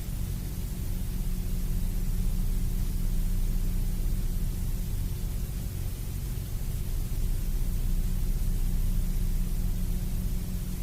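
Steady low droning hum, with a constant hiss over it, unchanging throughout.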